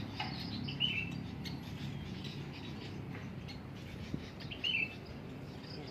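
Small birds chirping, with short, high, down-curving calls; the two clearest come about a second in and near the end. A steady low hum runs underneath.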